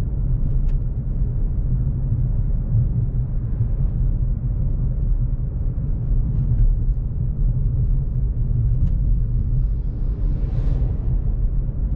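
Steady low drone of engine and road noise inside the cabin of a Volkswagen CC with the 3.6 VR6, cruising at an even pace. A few faint ticks, and a brief rushing hiss near the end.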